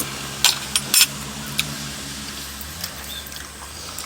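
Close-up eating sounds: a few sharp wet clicks and smacks of chewing, bunched in the first second and a half, over a steady low hum.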